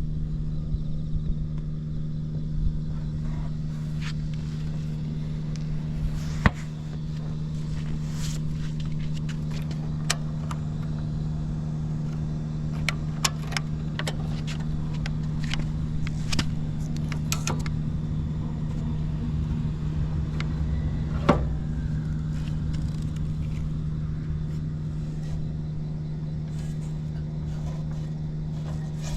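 Vintage Honda Cub 70's single-cylinder four-stroke engine idling steadily, with scattered light clicks over it.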